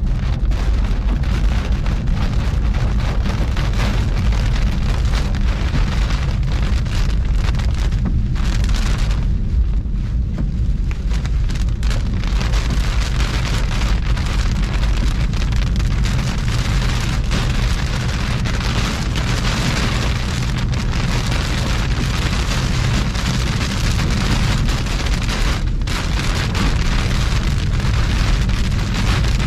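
Heavy thunderstorm rain pouring down in strong wind, a continuous rushing hiss that swells and eases, over a steady deep rumble of wind buffeting the microphone.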